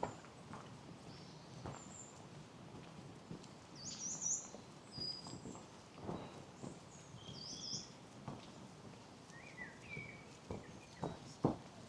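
Small songbirds calling and singing in short, high chirps and trills, with the walker's footsteps on a path giving occasional soft knocks, the clearest near the end.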